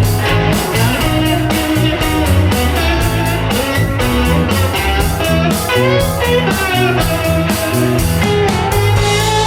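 Live rock band in an instrumental break: an electric guitar plays lead lines over bass and a steady drum beat.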